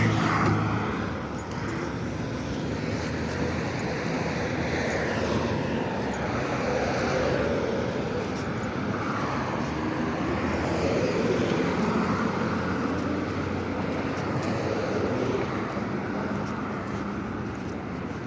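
Road traffic: a steady rush of engines and tyres, swelling and fading as vehicles pass.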